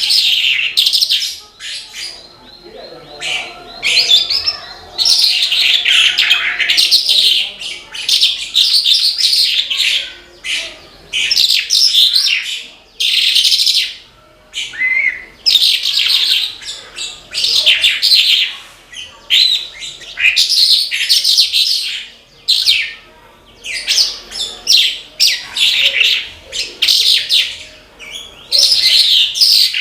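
Branjangan (Horsfield's bush lark, Mirafra javanica) singing vigorously, the full 'gacor' song: rapid, rich phrases of chirps and trills repeated one after another with brief pauses between them.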